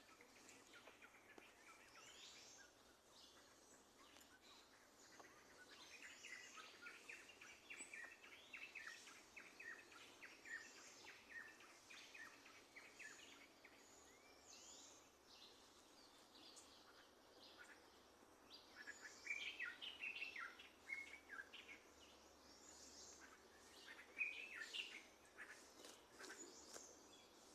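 Faint birdsong: several birds chirping in quick runs of short high notes, coming in bursts several times, over a low background hiss.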